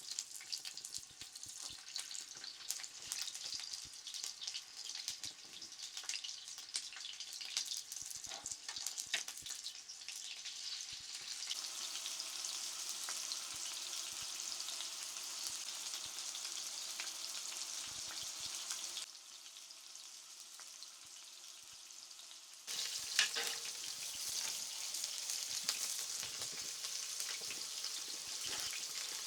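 Food frying in a hot pan: a steady high hiss, crackly with many small pops over the first ten seconds or so, then smoother. About two-thirds of the way through it drops lower for a few seconds, then picks up again after a sharp click.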